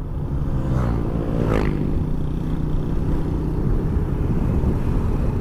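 Motorcycle engine running under way with steady wind and road rumble; the engine note rises briefly about a second in as it speeds up.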